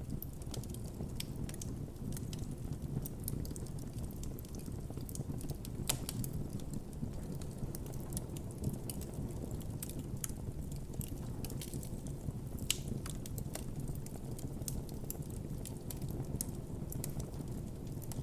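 Campfire burning with a steady low rumble of flame, sprinkled with irregular crackles and pops of burning wood; sharper pops about six seconds in and near thirteen seconds.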